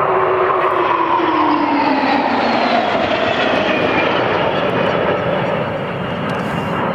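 Aircraft flying past low, its engine tones dropping in pitch about two to three seconds in as it passes, over a steady rushing noise.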